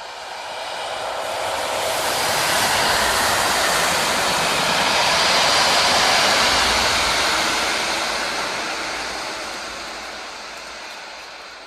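A train passing close by: a rushing rail roar that builds over a couple of seconds, holds loud through the middle and slowly fades as it draws away.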